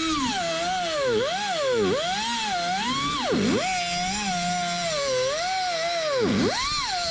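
Power tool motor whining while spinning a nut off a stud, its pitch wavering up and down as the speed changes and dropping low twice.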